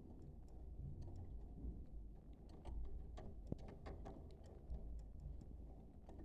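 Budgerigars making faint, irregular clicks and short chirps, thickest in the middle, over a low steady rumble; budgie chatter of the kind played to stimulate pairs to breed.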